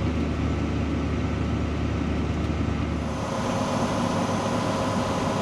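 Tractor engine running steadily, heard as a low hum. About three seconds in the sound changes: the deepest part drops away and a higher steady whine takes over.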